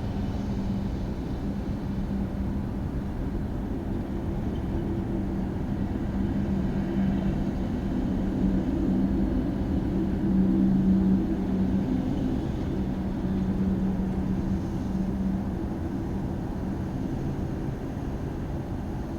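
Boeing 787-8 Dreamliner's jet engines at takeoff power, a steady rumble with a low drone, growing to its loudest about eleven seconds in and then easing off.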